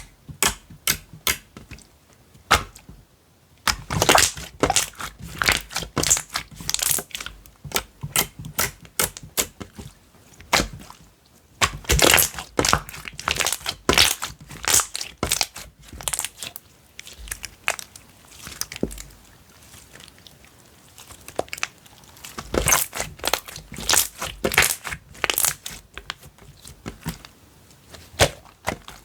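Slime being squished, stretched and pressed by hand, giving clusters of crackly pops and clicks in irregular bursts, with short pauses between handfuls.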